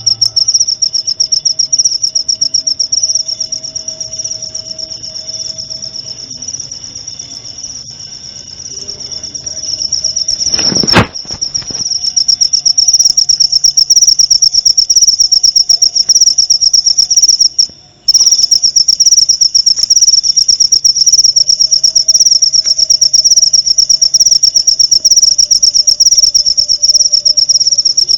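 Cricket (jangkrik) song: a steady, high-pitched trill, quieter for the first several seconds and then louder after a sharp click partway through, with a brief break in the song later on.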